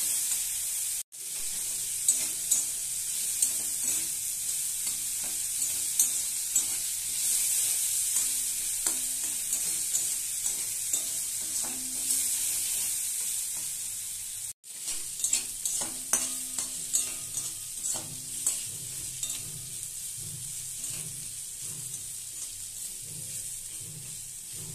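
Spiced diced potatoes sizzling in hot oil in a kadai, with a spatula scraping and knocking against the pan again and again as they are stirred. The sound cuts out briefly twice, about a second in and about two-thirds of the way through.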